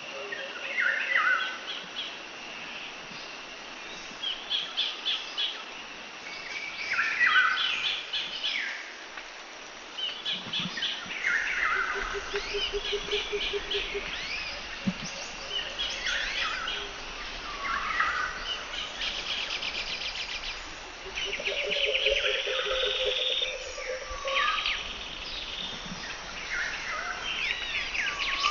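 Several birds singing and chirping, with short warbling and trilling phrases overlapping every couple of seconds. A lower, rapid pulsing trill comes in twice.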